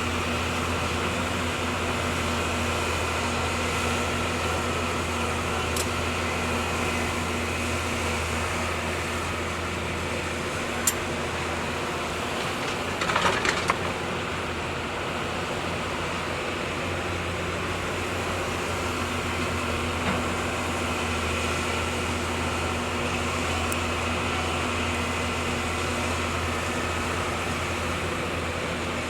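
Hyundai excavator's diesel engine running at a steady drone, with a sharp knock about 11 seconds in and a brief cluster of metallic clanks a couple of seconds later.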